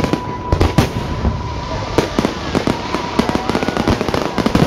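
Aerial fireworks going off: a rapid, irregular string of bangs and crackles.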